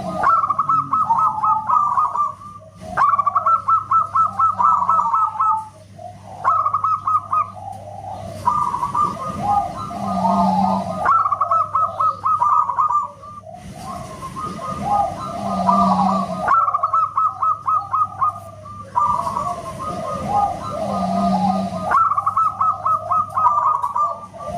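Zebra dove (perkutut) singing: repeated phrases of rapid staccato cooing notes, each phrase lasting a couple of seconds with short pauses between them, over a faint steady low hum.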